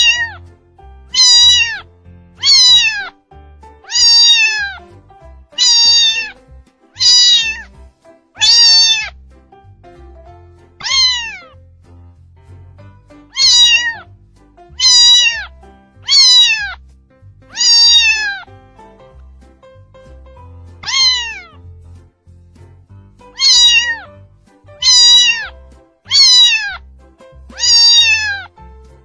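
A kitten meowing over and over: about seventeen short, high-pitched calls, each falling in pitch, one every second or so, with a few longer pauses between them.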